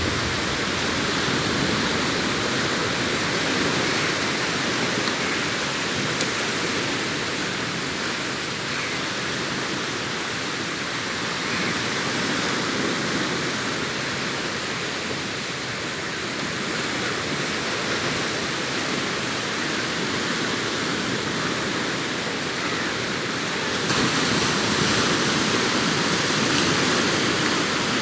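Sea waves breaking and washing onto a beach: a steady rush of surf that swells and eases slowly, growing louder near the end.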